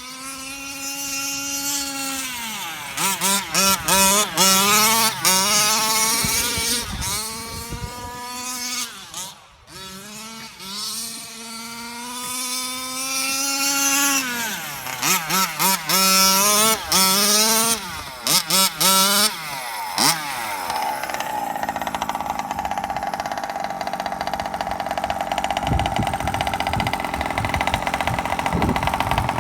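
Two-stroke 27.2 cc engine of a 1/5-scale Losi 5ive RC truck with a tuned expansion pipe, revving hard again and again, its pitch climbing steeply and dropping back with the throttle, with choppy stuttering bursts in places. From about twenty seconds in it settles into a steadier, even drone.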